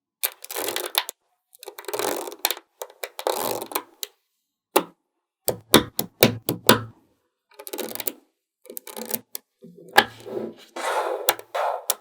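Small magnetic balls snapping together and rattling against each other as they are handled. The sound comes in short bursts of rapid clicking, with single sharp clicks between them.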